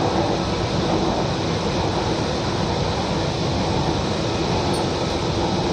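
Kochi Metro train running between stations, heard inside the passenger car: a steady rumble and rush of wheels and motion with a faint steady hum.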